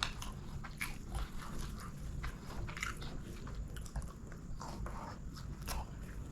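Close-miked eating sounds: a person chewing chicken biryani, with irregular wet mouth smacks and clicks.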